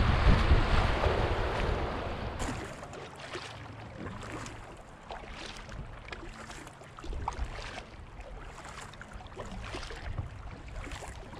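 Wind buffeting the microphone, loud at first and dying away over the first two seconds, followed by faint scattered ticks and knocks.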